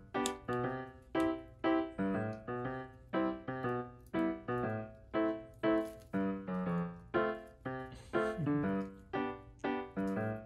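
Background piano music: a steady run of single notes, about two a second, each struck and fading out.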